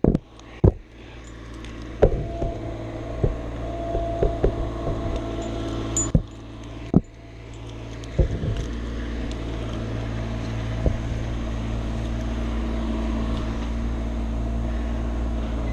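An engine running steadily at a constant speed, with several sharp knocks and clicks during the first half.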